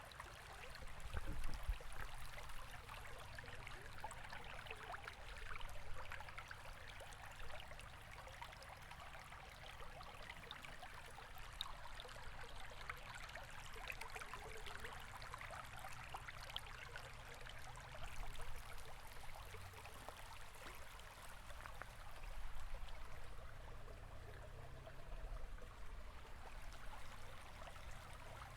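River water flowing and burbling, with fine splashing and a few louder swells.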